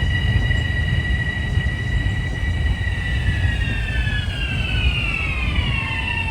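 Metro-North electric train pulling into the station: a low rumble with a steady high whine from its traction motors, which slides down in pitch over the last three seconds as the train slows.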